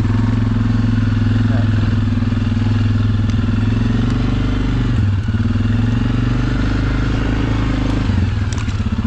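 Utility ATV's single-cylinder four-stroke engine running under way on a trail, heard from the machine itself; the engine note dips briefly as the throttle eases about five seconds in and again near the end.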